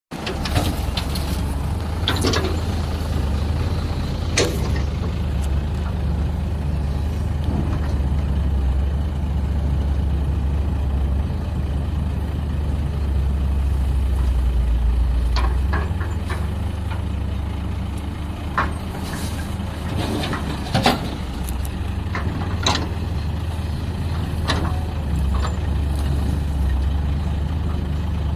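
Heavy diesel engine of a Cat 320B hydraulic excavator running steadily, with scattered sharp knocks and clanks over it.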